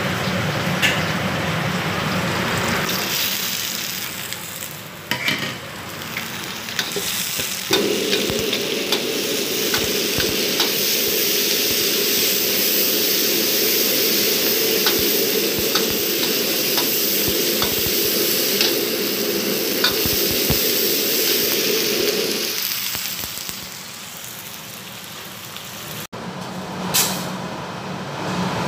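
Ingredients sizzling as they are stir-fried in a wok, with a metal spatula clicking and scraping against the pan. A louder steady rush of frying holds through the middle and eases off near the end.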